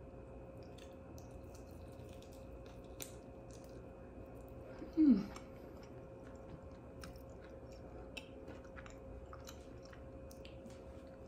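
A person chewing and biting into buffalo chicken wings, with small crunches and mouth clicks throughout. About halfway through comes a short 'mm' that falls in pitch, the loudest sound.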